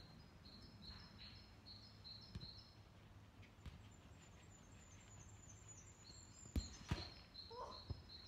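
Faint birdsong: a small bird repeating short high notes in runs, about two a second. Two sharp knocks come about six and a half to seven seconds in.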